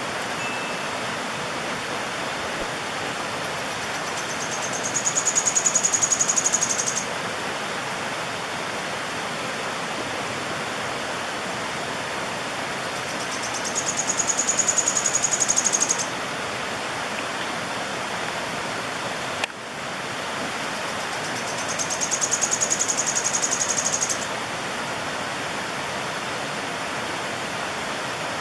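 Sharp-tailed streamcreeper (João-porca) singing a rapid, high-pitched trill three times, each lasting two to three seconds, over the steady rush of a stream.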